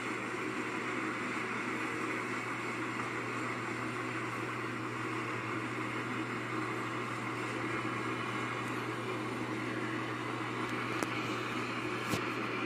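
Freight train rolling past: a steady, even rumble and hiss of wagon wheels on the rails, with a couple of sharp clicks near the end.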